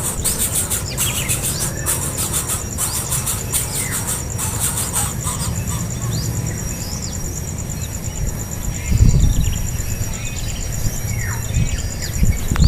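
Birds chirping in short, sliding calls over a steady, high, pulsing insect buzz. A low rumble swells about nine seconds in and again near the end.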